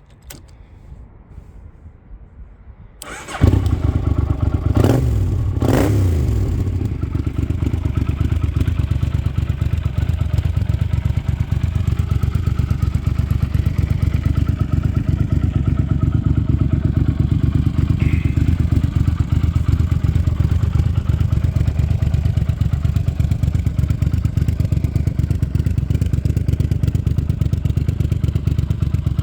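Yamaha TDM 850 parallel-twin engine breathing through an aftermarket Chinese exhaust: it starts about three seconds in, is blipped twice, then settles into a steady, pulsing idle.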